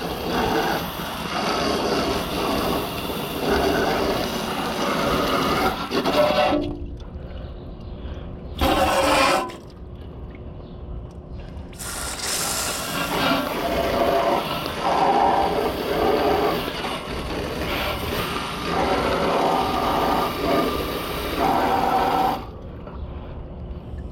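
Garden hose spraying water onto a Bryant air conditioner's outdoor unit during rinsing. The spray stops about six seconds in, comes back for a short burst, then runs again and stops shortly before the end.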